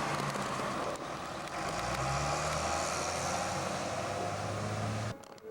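Steady engine noise with a low hum that shifts in pitch, cutting off abruptly near the end.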